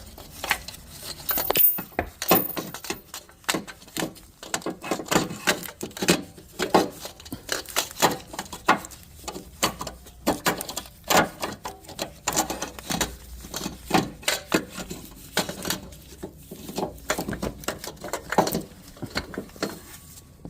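Metal hand tools and engine parts clinking and knocking, many irregular taps and clatters with no engine running.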